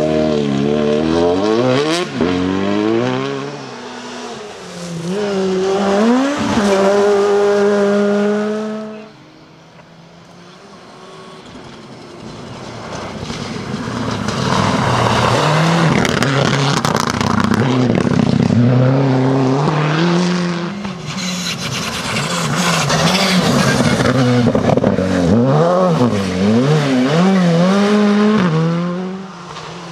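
Rally cars on a gravel stage at full throttle, engines revving up and dropping back with each gear change. The sound falls away about nine seconds in, then another car comes closer and revs hard through a run of rises and falls.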